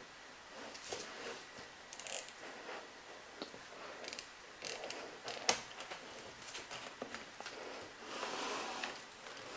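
Box and packaging being handled by hand: scattered rustles and small clicks, a sharp click about five and a half seconds in, and a longer rustle or slide near the end.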